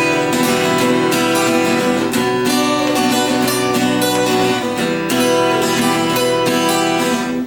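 Instrumental passage of a folk song: acoustic guitars strummed in a steady rhythm.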